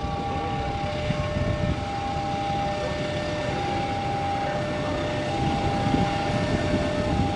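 Diesel-hauled passenger train rumbling steadily past a level crossing, while two steady tones alternate high above the rumble.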